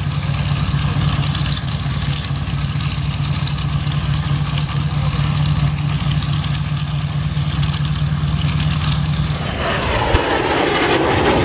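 Steady engine drone with an unchanging low hum. About nine and a half seconds in it gives way abruptly to a louder rushing noise.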